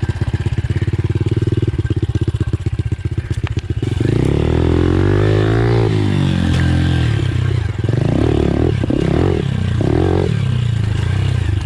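Pit bike engine pulsing at low revs, then revving up and down about four seconds in as the bike is ridden over the track's jumps and rollers.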